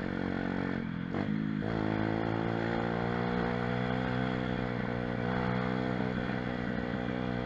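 Pit bike engine running steadily under throttle while being ridden. The note breaks off briefly twice about a second in, then holds steady.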